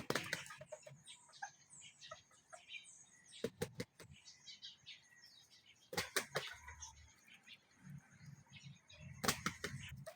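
Bantam chickens clucking and chirping in short, scattered calls, with three loud clusters of sharp clattering knocks a few seconds apart.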